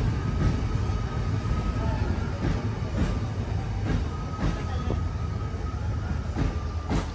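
Passenger coaches of a train rolling slowly past, with a steady low rumble and irregular clicks of the wheels over the rail joints. A faint high wheel squeal comes and goes.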